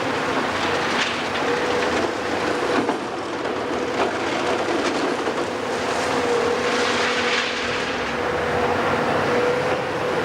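Heavy demolition machinery running: a steady engine drone with a constant whine, broken by scattered knocks and crunches.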